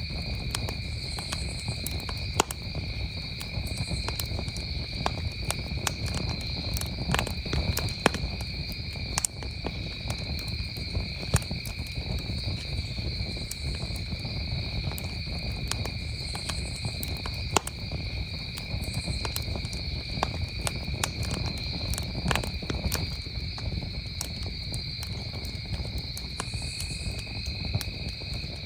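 Wood campfire crackling with frequent sharp pops and snaps over a low steady rumble, while crickets chirp continuously in the background as a steady high trill.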